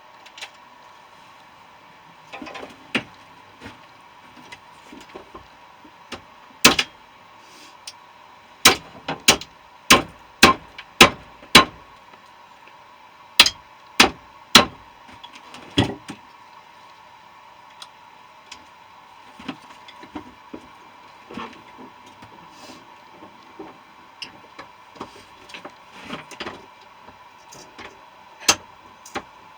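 Hammer strikes on a central air conditioner compressor being broken apart for its copper: about ten sharp, loud blows in quick groups through the middle, another near the end, with lighter knocks and metal clinks in between.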